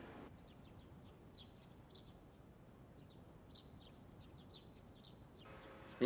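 Near silence with faint birds chirping: scattered short, high chirps over a low background hiss.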